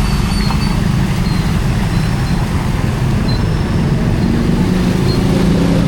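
Street traffic: a steady low rumble of vehicle engines, with one engine's hum coming through more clearly near the end.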